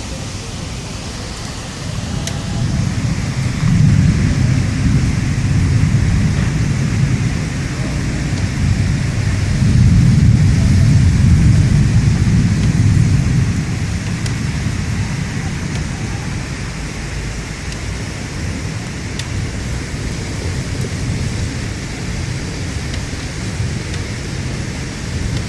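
Thunderstorm: steady heavy rain with rolling thunder, two long low rumbles swelling up a few seconds in and again about ten seconds in.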